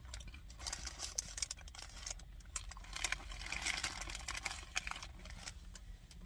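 Faint handling noise: scattered light clicks and rustling that swell about three seconds in, over a low steady hum.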